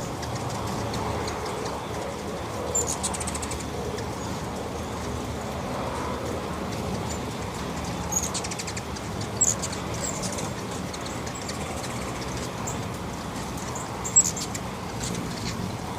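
Hummingbirds at a feeder giving short, high chips and brief rapid twittering trills every few seconds, the sharpest chips about nine and a half and fourteen seconds in, over a steady background hiss.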